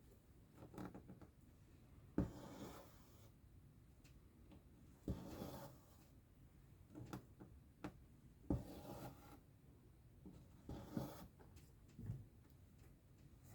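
Quiet cross-stitching: a needle pops through the fabric, then the thread is drawn through with a short rubbing swish, repeated every few seconds.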